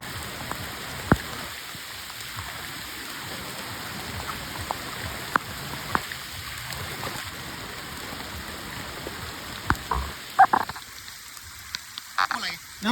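Steady monsoon rain hissing, with scattered sharp taps of drops landing close by.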